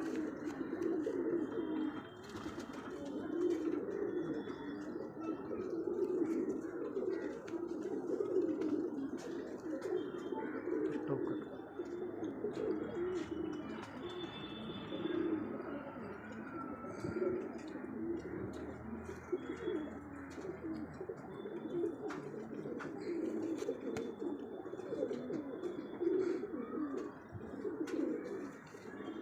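A group of Kalpara pigeons cooing continuously, their low coos overlapping, with faint short high chirps above them.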